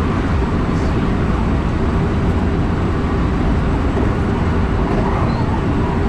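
Electric train running along the line, a steady rumble of wheels on rail and traction noise heard from inside the front of the train.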